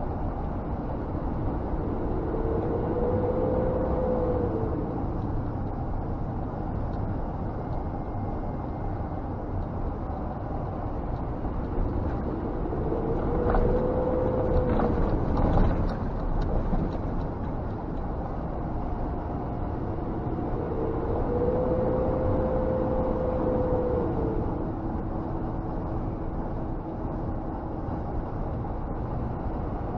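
Scania G460 truck's six-cylinder diesel and road noise heard from inside the cab while driving, a steady low rumble. The engine note rises and eases back three times as the driver speeds up and slows.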